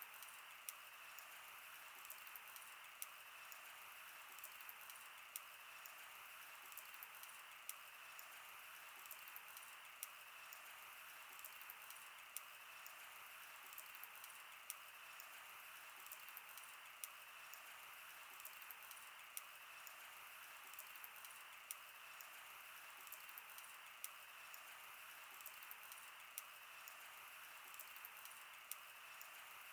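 Wood fire burning: a faint, steady hiss with frequent sharp crackles and a louder pop every second or two.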